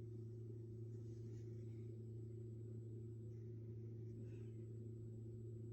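A steady low electrical-sounding hum made of several fixed tones, with faint soft rustles about one second and four seconds in.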